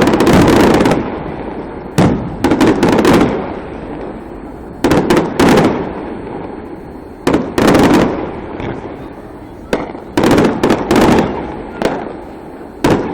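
Fireworks going off: clusters of sharp bangs come about every two to three seconds, and each cluster trails off in a rumble and crackle.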